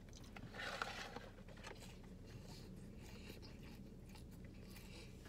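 A person faintly chewing french fries with small crunches and mouth clicks, over a steady low hum of the car cabin.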